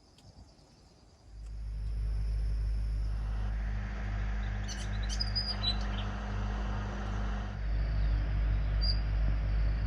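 A steady low engine hum, like a vehicle idling close by, starts about a second in and runs on as the loudest sound. Small birds give a few short, high chirps about five seconds in and once more near the end.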